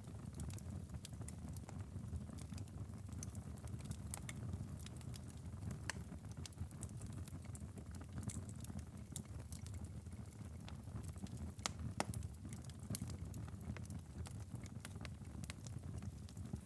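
Wood fire crackling in a fireplace: irregular sharp pops and snaps over a steady low rumble of the flames, with a couple of louder pops about six and twelve seconds in.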